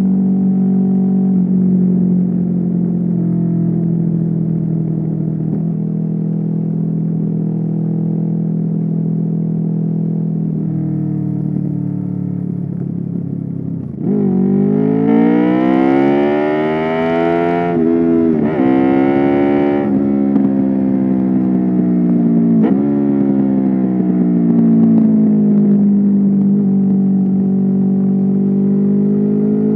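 Honda VFR800's V4 engine under way: steady cruising for about the first half, then the revs climb hard, with short breaks and the revs falling and rising again several times through the bends.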